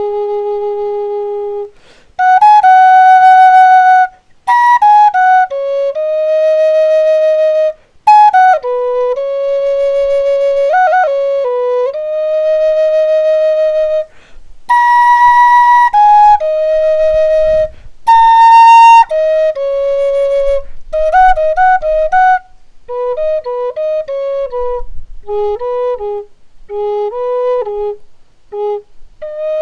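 Solo flute playing a slow, free melody in separate phrases with short breaths between them, held notes broken by quick ornamental flicks of pitch; near the end the notes grow shorter and dip lower.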